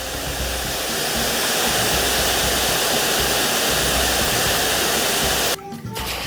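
Steady rush of flowing water over background music, cutting off suddenly near the end.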